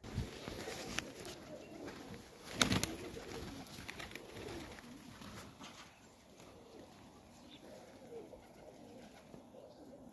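Highflyer pigeons cooing in the loft, a soft continuous murmur, with one sharp, louder noise about two and a half seconds in.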